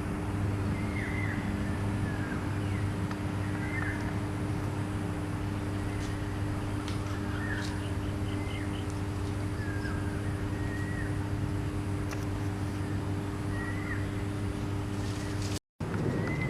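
A bird calling with short, sharp curved notes repeated about once every second or so, over a steady low mechanical hum.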